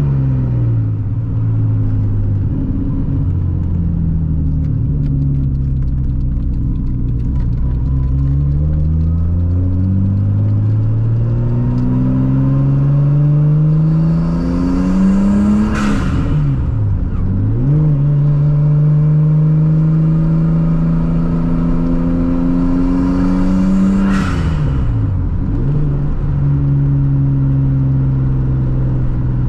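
Turbocharged Nissan RB25 straight-six heard from inside the cabin, pulling through the gears with the revs climbing slowly. Twice, about halfway through and again some eight seconds later, the revs drop sharply on a gear change, with a rising turbo hiss that ends in a sharp release.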